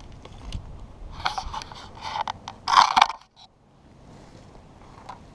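Scraping and crunching of hands working at the trap, a run of rough strokes from about a second in that is loudest just before three seconds and then stops suddenly.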